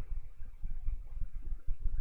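Low, uneven background rumble with faint hiss, in a pause between spoken phrases.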